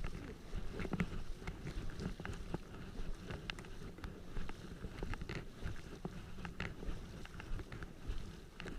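Rain falling: scattered, irregular drop ticks over a low rumble of wind on the microphone.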